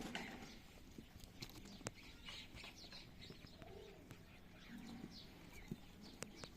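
Faint scattered clicks with a few short, low animal calls and light bird chirps.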